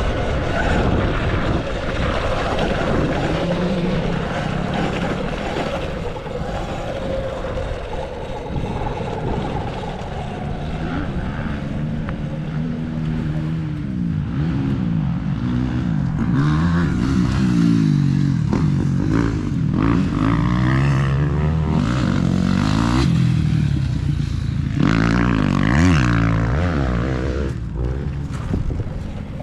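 Full-electric motocross bike (Amped Bikes Stage 2 conversion) ridden hard: its motor whine sweeps up and down in pitch again and again as the throttle is opened and closed. Heavy wind rumble on the microphone runs throughout.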